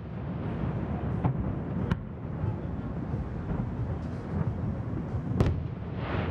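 Distant aerial firework shells bursting: a continuous low rumble with a few sharp bangs, the loudest about five seconds in.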